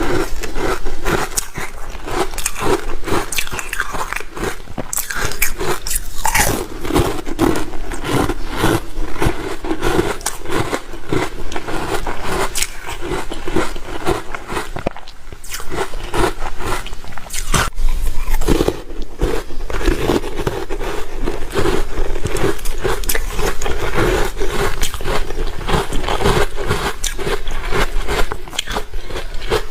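Close-miked crunching of ice being bitten and chewed: dense, continuous cracking with many sharp crunches.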